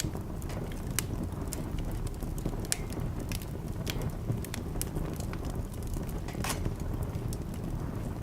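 Wood fire crackling in a fireplace: irregular sharp pops and crackles, a few of them louder, over a steady low rumble.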